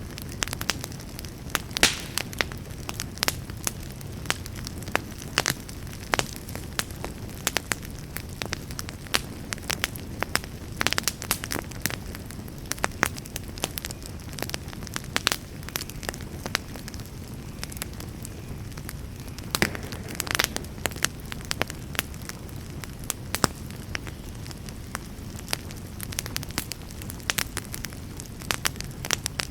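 Campfire burning, with frequent sharp crackles and pops over a steady low rumble of flames.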